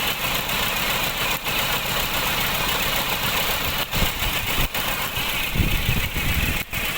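A 1982 Honda Civic's engine idling steadily, with a short deeper rumble about five and a half seconds in.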